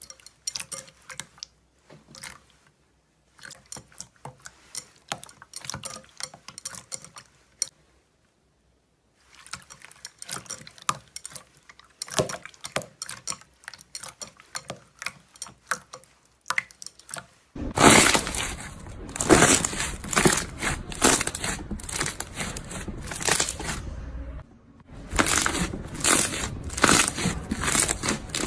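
Close-up crackling and crunching of a soft, crunchy material being squeezed and pressed by hand: scattered clicks at first, a short silence, then much louder, denser crackling from about two-thirds of the way in.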